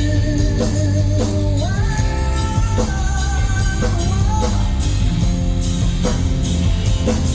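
Live rock band playing a passage of a ballad: drums and bass under a held lead melody that slides up and down in pitch.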